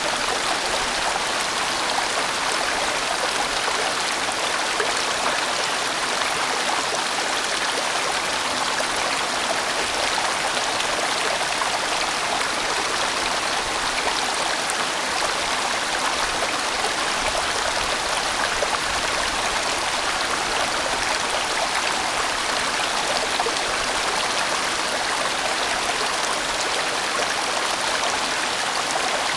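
A large, winding mountain stream flowing: a steady, even rush of water with no pauses or changes.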